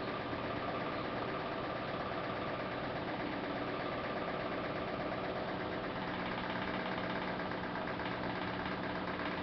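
Samsung WF448 VRT washing machine running: a steady machine hum with several tones, its pitch pattern shifting slightly about six seconds in.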